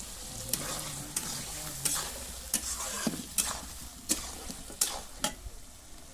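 Marinated chicken pieces sizzling as they fry in a kadai, with a spatula stirring them and knocking and scraping against the pan about once or twice a second.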